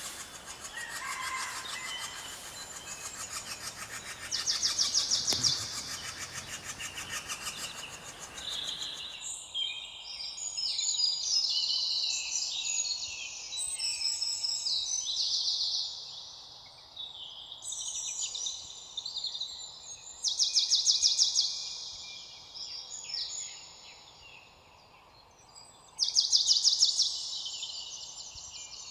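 Several songbirds singing and calling, overlapping chirps and rapid high trills repeated every few seconds. A steady hiss under the birds falls away about nine seconds in, leaving the birdsong clearer.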